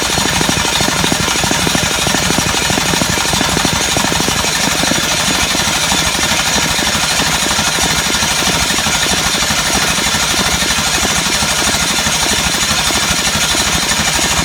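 Starter cranking a freshly cammed GM LQ9 6.0L V8 at a steady, rapid chug without it firing. The engine is being turned over only to prove oil pressure on its new oil pump, and it builds a little over 30 PSI.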